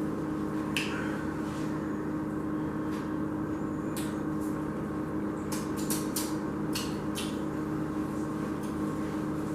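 Someone eating a crispy fried chicken sandwich: several short, sharp chewing and crunching clicks over a steady electrical hum.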